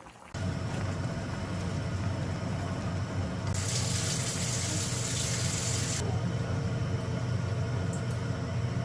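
Water running steadily from a kitchen tap into a sink, with a harder, hissing spray for a couple of seconds in the middle.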